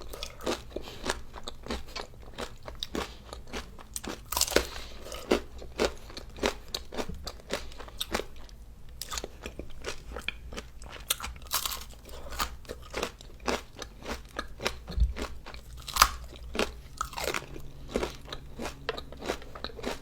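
Close-up crunching and chewing as a crunchy-coated ice cream treat with a wafer centre is bitten and eaten, in many sharp irregular crunches with no talking.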